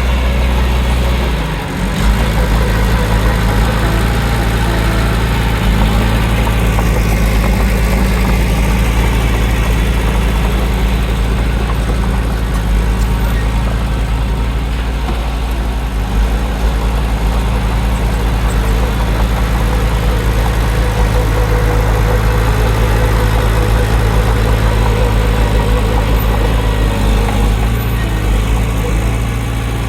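Heavy diesel engine of earthmoving equipment running steadily, with a brief dip in level about two seconds in.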